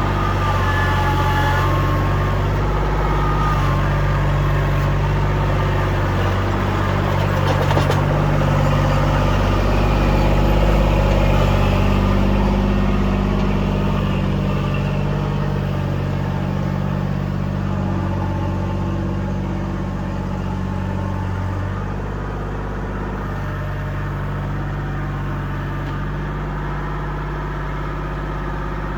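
Kubota L2501 compact tractor's diesel engine running steadily, its engine note shifting a few times as it works. There is a brief sharp clatter about eight seconds in.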